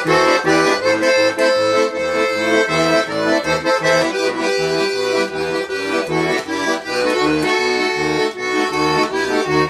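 Accordion playing an instrumental interlude of a Russian gypsy-style song: a melody over a regular, pulsing bass accompaniment.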